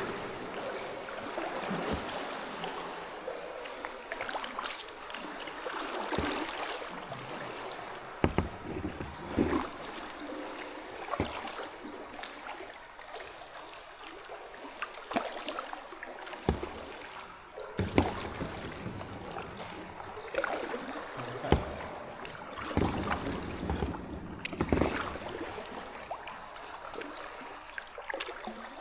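Kayak paddling in still water: paddle blades dipping and splashing, with scattered sharp knocks at irregular intervals.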